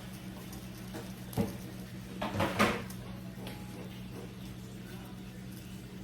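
Seasoned chicken breasts sizzling in a skillet, a steady frying hiss over a low hum, with a knock about a second and a half in and a short clatter of kitchenware a second later.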